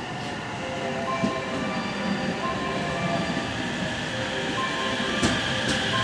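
Local electric train running into the station platform and slowing, its wheels and running gear clattering over the rails. A high whine grows stronger in the second half.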